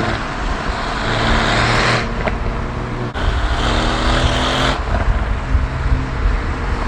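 Car engine under hard acceleration, its pitch climbing and then dropping at gear changes about two, three and five seconds in, over wind and road noise.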